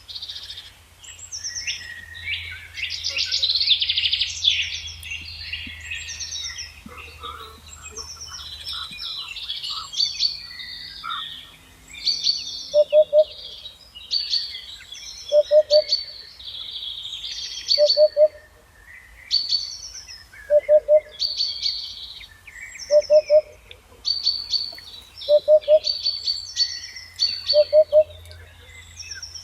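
Several songbirds chirping and trilling in quick, overlapping phrases. From about halfway through, a lower two-note call repeats about every two and a half seconds, louder than the chirping.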